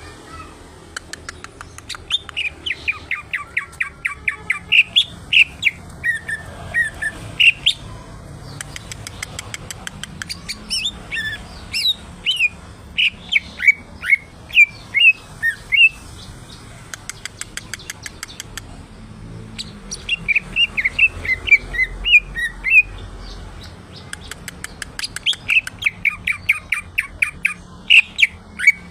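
Cucak ijo (green leafbird) singing in long, varied phrases of quick chirps, sharp whistled notes and fast rattling trills, broken by short pauses.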